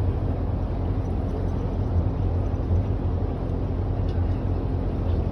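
A tour boat's engine running steadily at a constant speed, a low, even hum heard on board.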